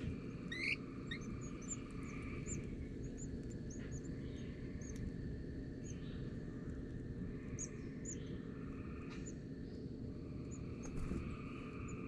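Small birds chirping: a quick rising call about half a second in, then many short, high chirps scattered throughout, over a steady low background rumble.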